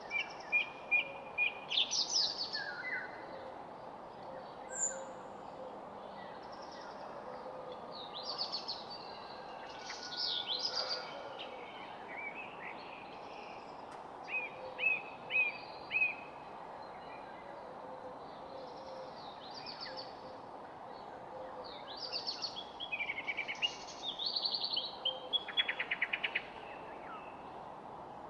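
Several songbirds singing and chirping, with short phrases and trills coming in bursts every few seconds over a steady background hum.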